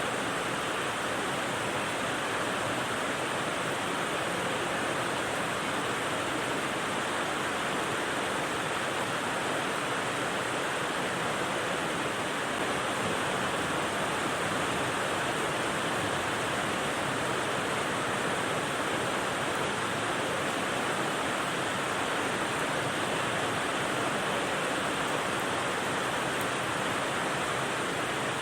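Steady rain white noise: an even, unbroken hiss with no single drops or other sounds standing out.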